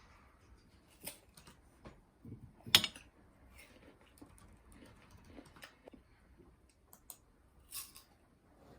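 Scattered light clicks and knocks of small objects being handled, one louder knock about three seconds in.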